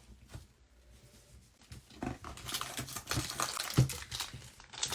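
Wrapper of a trading-card pack being torn open and crinkled, starting about two seconds in as a dense run of crackles.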